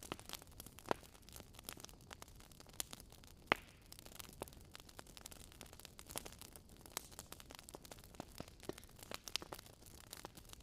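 Wood fire crackling: frequent small pops and snaps over a low hiss, with one sharper pop about three and a half seconds in.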